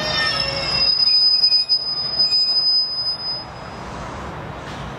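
Train running past out of view, with a high, steady squeal of wheels on rail over its running noise. The squeal cuts off about three and a half seconds in and the train noise falls away.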